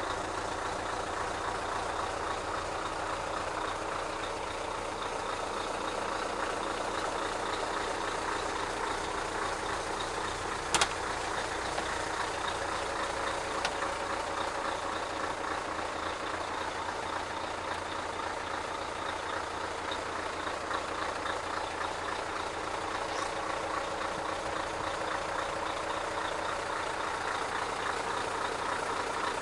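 Scania R143's 14-litre V8 diesel idling steadily, with a sharp click about eleven seconds in.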